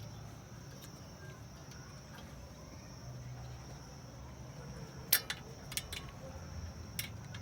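A few sharp metallic clicks in the second half from the screwdriver and the front brake caliper's brake-pad retaining spring being worked loose, over a steady high chirring of crickets.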